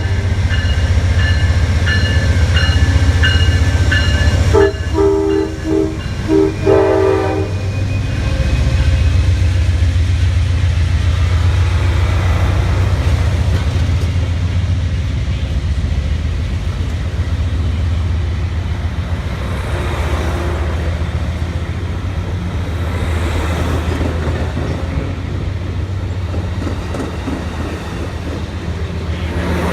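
Passenger train's air horn sounding once, then a run of short blasts about five to seven seconds in, as the diesel train pulls out. After that the low rumble of the locomotive and rolling cars goes on and slowly fades.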